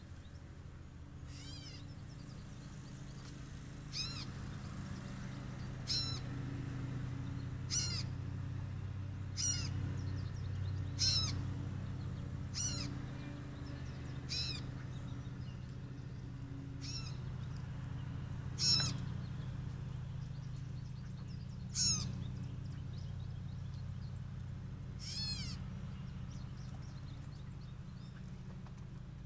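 A bird gives short, mewing, cat-like calls about a dozen times, one every two to three seconds, over a steady low hum.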